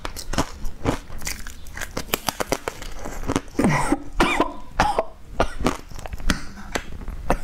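Close-miked crunching and chewing while eating a green powdered food, heard as many sharp, irregular crackling clicks. A short cough comes about halfway through.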